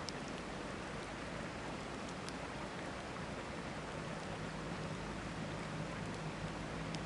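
Steady rush of a flowing river, with a wood campfire giving a few sharp crackles: one near the start, one about two seconds in, and one near the end.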